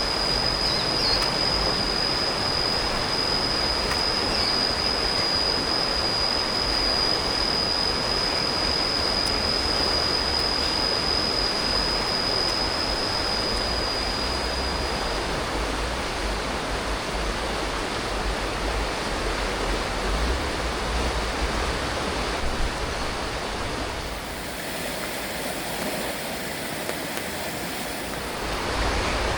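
River water rushing steadily, an even hiss with a low rumble beneath it. A thin, steady high-pitched whine sits over it and stops about halfway through.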